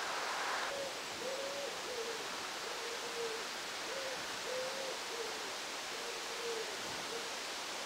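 Water trickling into a stone well trough cuts off a moment in. Then a bird calls in low, hollow notes, about nine in short repeated phrases, each phrase with one longer note.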